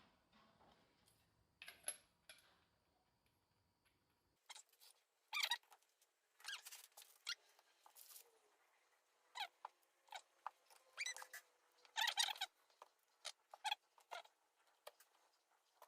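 Small metal transmission parts, gears, shafts and bearings, handled by hand: faint at first, then from about four seconds in a run of irregular short squeaks and light metallic clicks.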